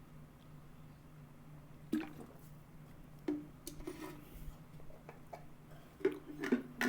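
Quiet pause over a faint low steady hum, broken by a few short soft clicks and wet smacking sounds, about two seconds in, around three to four seconds, and several near the end.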